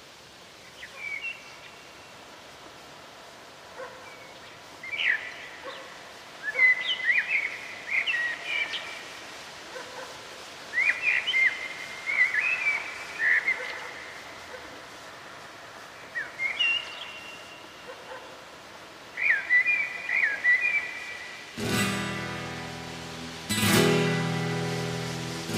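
Birds chirping in short clusters of quick gliding notes over a faint steady rushing noise, then acoustic guitar chords start near the end, strummed about every two seconds and left to ring.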